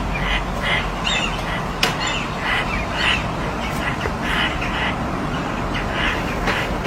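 Crow calling over and over, about two to three short calls a second, over a steady low rumble, with a sharp click a little under two seconds in.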